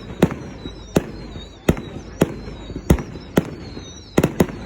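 Fireworks going off in an irregular run of sharp bangs, about one every half second to second, with three in quick succession near the end, over a faint high wavering whistle.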